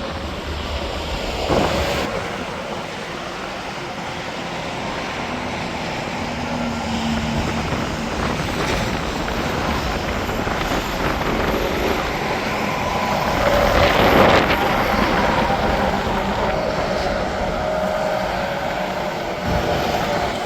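Steady interstate highway traffic, the hiss and rumble of tyres and engines as trucks and cars pass, with the loudest vehicle passing about two-thirds of the way through.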